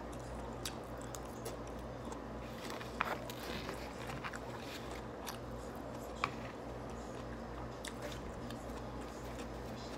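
Chewing a mouthful of broccoli, with scattered light clicks and scrapes of a plastic fork against a foam takeout bowl. The sharpest click comes about three seconds in and another around six seconds, over a low steady hum.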